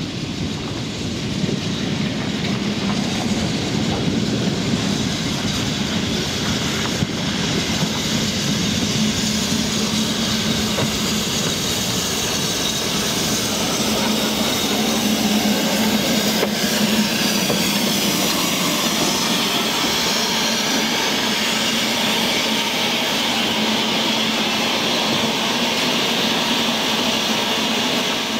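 A train running on a heritage railway, with steady wheel-on-rail noise. The sound grows a little louder after the first couple of seconds, and a hiss strengthens through the second half.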